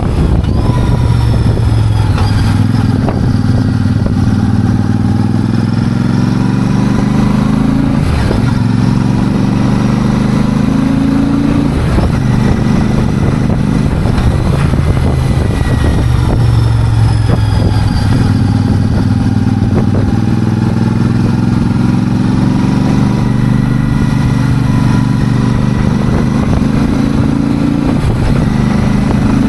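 Royal Enfield Super Meteor 650's 648 cc parallel-twin engine under way, its pitch climbing and dropping back several times as it is run up through the gears.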